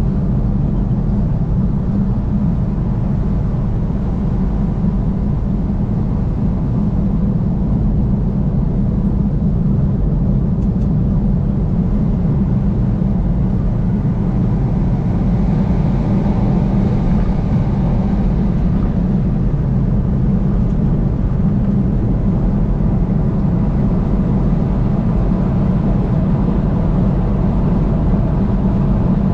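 Steady road and engine noise of a car driving on a highway, a deep rumble that swells slightly about halfway through.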